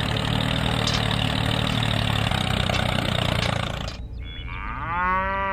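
Tractor engine running steadily, which cuts off abruptly about four seconds in. Near the end comes a drawn-out low call that rises at its start and then holds its pitch.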